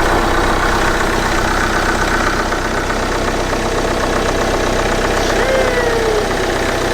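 Engine idling steadily, with a short falling whistle-like tone about five and a half seconds in.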